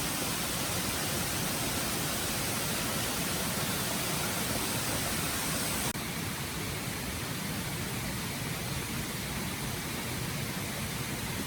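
Stream water running steadily, an even rushing noise, which drops slightly and changes tone abruptly about six seconds in.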